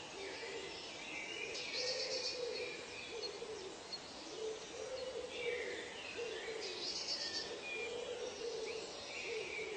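Bird ambience: a low hooting call repeated over and over, about once a second, under scattered higher chirps and trills.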